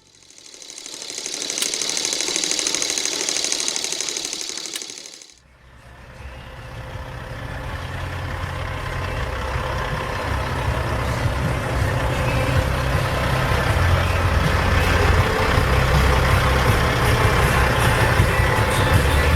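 Kenworth W900L semi truck's diesel engine running with a low, rough rumble that grows steadily louder. Before it, for about five seconds, a hissing, fast-rattling sound swells and fades, then breaks off sharply.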